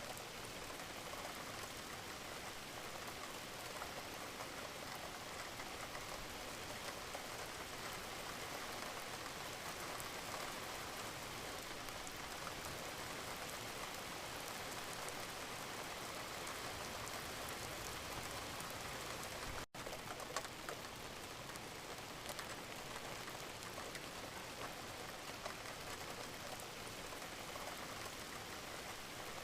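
Steady gentle rain falling, with a patter of many individual drops. The sound cuts out for an instant about two-thirds of the way through.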